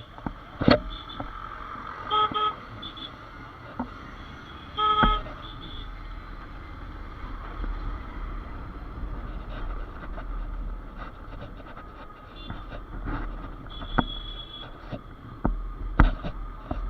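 Vehicle horns honking in road traffic: two short honks about two and five seconds in and a higher-pitched horn near the end, over the steady rumble of traffic and engines, with a few sharp knocks.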